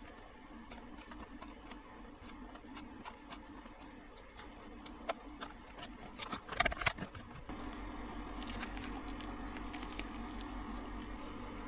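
Rain pattering on the van's roof, heard from inside as scattered, irregular drop taps. Just past the middle there is a brief, louder burst of rustling noise, and after it a steady low hum grows a little louder.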